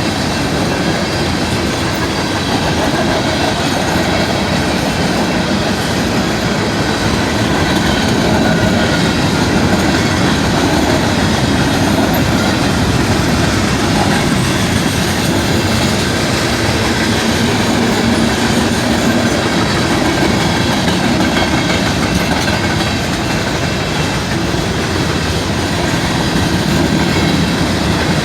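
Canadian Pacific train rolling past, a steady, loud rumble and clatter of wheels on the rails.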